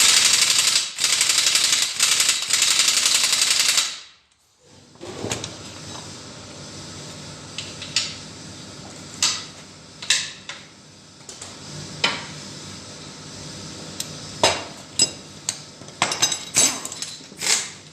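A pneumatic workshop tool runs in one loud, dense burst for about four seconds. After it, metal engine parts and tools clink and knock against each other, with sharper strikes gathering near the end.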